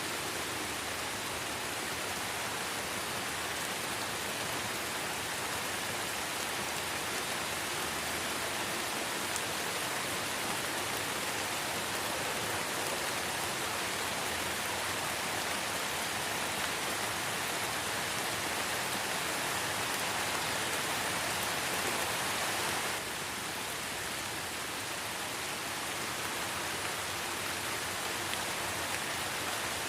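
Steady light rain, an even hiss with no distinct drops standing out, easing slightly about 23 seconds in.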